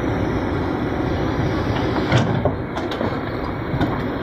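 Heavy diesel machinery running steadily as an excavator pushes a stuck truck, with a few sharp metal clanks about two, three and four seconds in.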